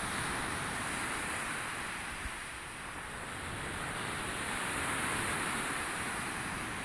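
Sea waves washing in, a steady rush of surf that eases about three seconds in and then swells again.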